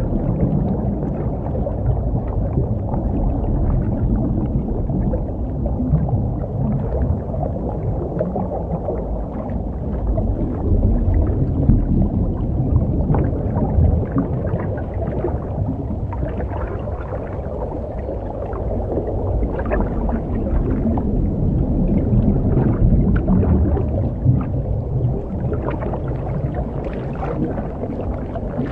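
Muffled underwater rumble with scattered bubbling and gurgling from a scuba diver's breathing gear, swelling and fading slowly.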